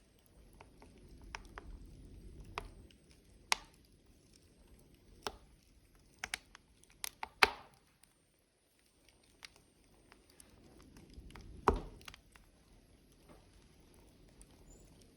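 Burning logs crackling, with irregular sharp pops and snaps, the loudest about seven and a half and twelve seconds in, over a low rumble of flame that swells and fades.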